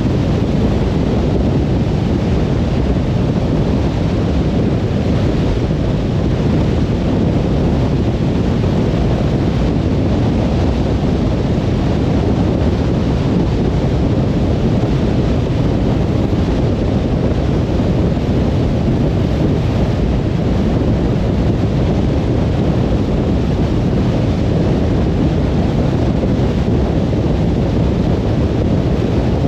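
Steady road noise of a car cruising on a motorway: an even rumble of tyres and wind with no change in pitch or level.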